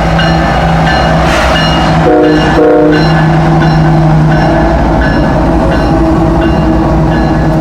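A train passing, with steady running and rail noise, and two short blasts of a locomotive horn chord about two seconds in.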